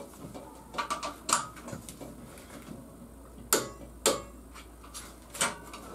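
Scattered sharp metallic clicks and clinks of hand tools, about five spread irregularly, as the swingarm pivot bolt of a Piaggio Boxer moped is tightened.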